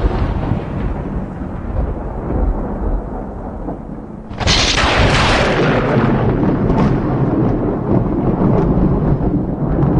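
Thunder: a low rolling rumble dies down, then a sudden sharp crack about four seconds in rolls on into a long, deep rumble.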